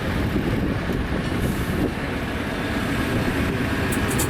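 Land train running along the road, heard from on board: a steady low engine drone and the rumble of the carriages rolling, with a few light rattles near the end.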